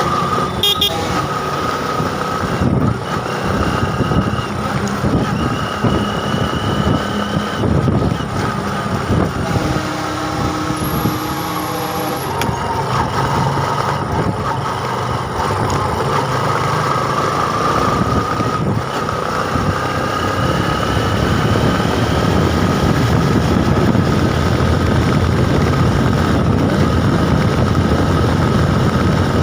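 Road traffic noise on a ride: vehicle engines running steadily, with a few short horn toots.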